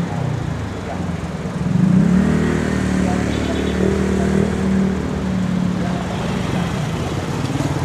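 Nearby motor vehicle engines in street traffic, running steadily with a pitch that rises about two seconds in as one speeds up.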